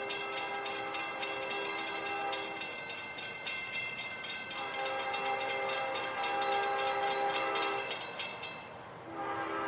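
Freight locomotive's multi-chime air horn sounding long blasts as the train approaches: one for the first two and a half seconds, another from about four and a half seconds to eight, and a third starting just before the end. A rapid regular clicking runs underneath until about eight seconds in.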